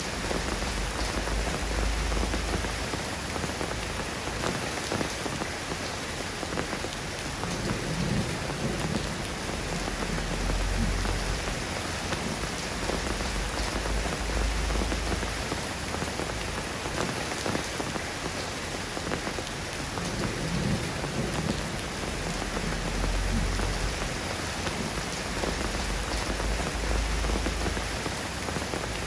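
Steady soft rain falling in an even hiss, with low rumbles swelling and fading underneath every few seconds.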